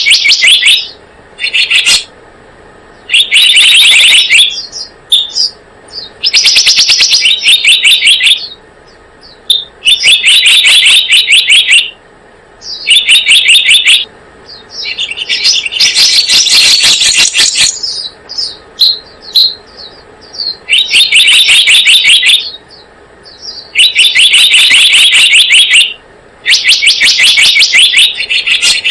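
Playback of a bird-lure recording of the selendang biru's call: loud, rapid chattering trills in phrases of one to two seconds, repeated every few seconds, with short single chirps in between.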